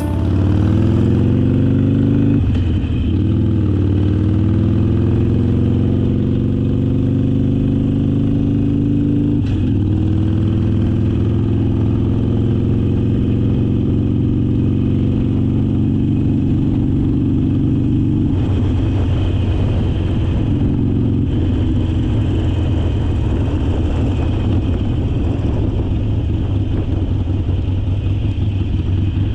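Harley-Davidson Forty-Eight's air-cooled 1200 cc V-twin running under way, its pitch falling and climbing again a few times as the revs change.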